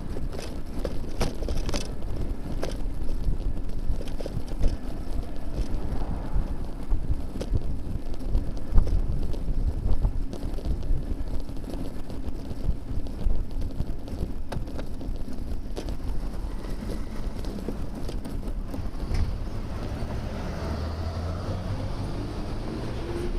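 Wind noise on a bicycle-mounted camera's microphone while riding, with scattered clicks and rattles from the bike. Near the end a passing vehicle's hum rises in pitch.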